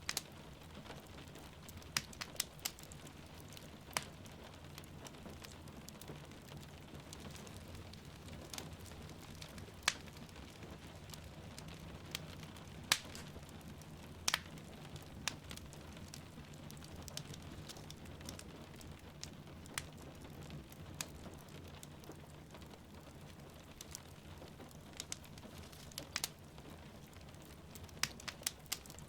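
Wood fire crackling in a fireplace, with irregular sharp pops and snaps, over a steady hiss of rain falling outside.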